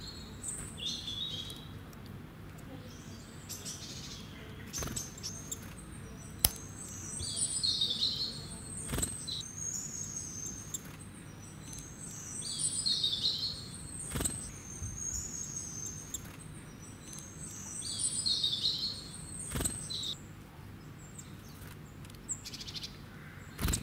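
A bird chirping, repeating a short high phrase about every five seconds. Several sharp clicks and taps come in between.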